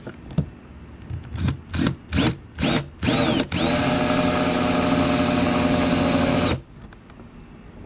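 Cordless power drill with a large bit, feathered in several short trigger blips and then run steadily for about three seconds before stopping, marking the centre of a mounting hole for a rear wing.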